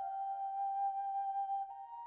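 Soundtrack music: a flute-like wind melody holding one long note, then stepping up to a higher note near the end.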